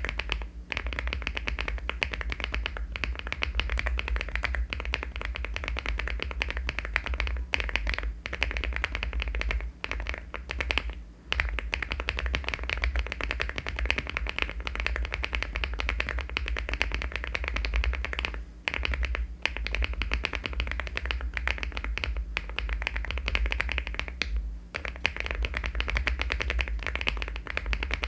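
Fast, continuous typing on a LEOBOG Hi75 aluminium mechanical keyboard fitted with HMX switches and Cherry-profile keycaps: a dense stream of keystroke clacks, broken by a few brief pauses. A steady low hum runs underneath.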